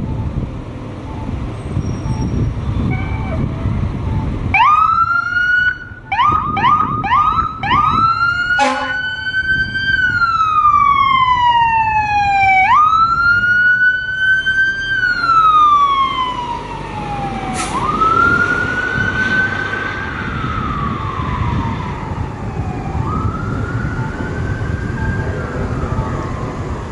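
Fire engine's electronic siren, switched on about four seconds in over the rumble of traffic. It starts with a run of quick rising yelps, then changes to a slow wail that rises sharply and glides down, cycle after cycle. The wail grows fainter toward the end as the truck moves off.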